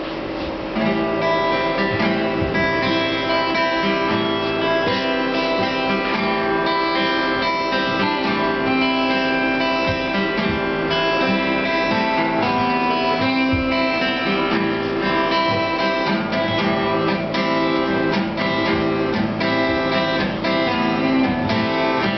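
Acoustic guitar music: strummed and picked acoustic guitars playing a song's instrumental introduction, starting about a second in.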